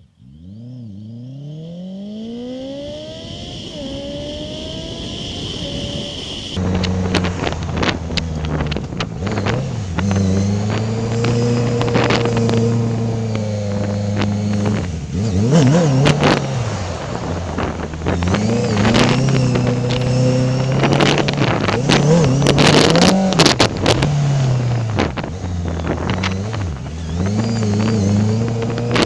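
Honda CBR650F inline-four engine through an Akrapovic full exhaust, ridden on the road, its pitch rising and falling with throttle and gear changes. A quieter sound rises smoothly in pitch over the first six seconds, then the engine comes in suddenly loud, with repeated sharp cracks and buffets over it.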